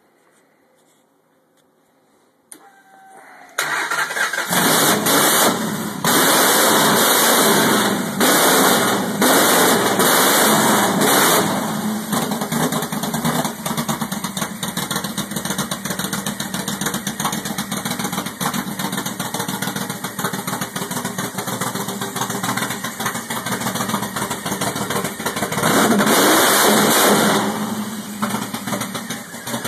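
Ford 5.4-litre DOHC V8 (Lincoln Navigator engine) being cranked and catching about three and a half seconds in. It is revved several times over the next several seconds, settles into a steady idle, and is revved once more near the end.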